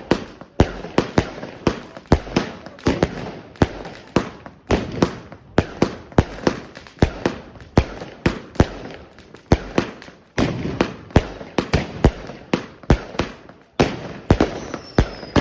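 Katan 'Tornado' firework going off: a rapid, uneven string of sharp bangs, about three a second, with crackling between them, ending near the close.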